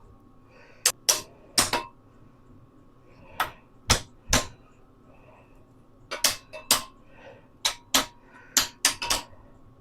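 Hammer blows on metal, about fourteen sharp strikes in irregular groups of two or three, driving a stuck part on the minibike front end loose.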